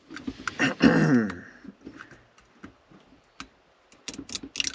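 Clicks and crinkles of the plastic wrapper and cap of a Ramune bottle being handled, with a dense run of clicks near the end as the wrapper is worked off. About a second in there is a brief tone that slides down in pitch.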